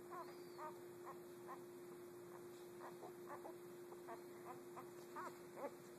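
A week-old puppy squeaking and whimpering in short, high, rise-and-fall calls, about two a second, over a faint steady hum.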